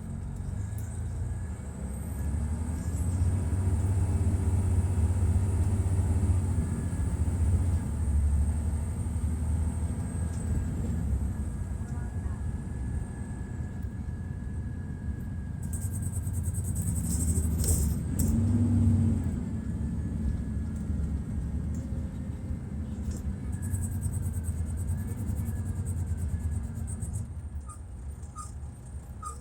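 2002 MCI D4000 coach's Detroit Diesel Series 60 straight-six diesel running under load, a deep rumble that swells and eases twice. A high whine climbs in pitch in the first seconds, holds, then fades away, and patches of high rattling come around the middle and near the end.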